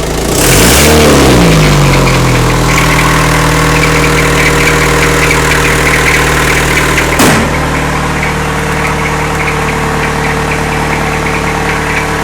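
Isuzu 4BE1 3.6-litre four-cylinder diesel, running cold, given one brief rev about half a second in and dropping back to a steady idle, made louder by a hole in the exhaust. A single sharp knock comes about seven seconds in, and a slight squeak from the alternator belt runs under the idle.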